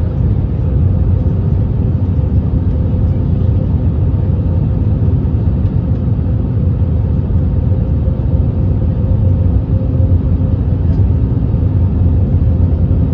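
Steady cabin noise inside an Airbus A321neo airliner: a loud, even low rumble of engines and airflow with a steady hum.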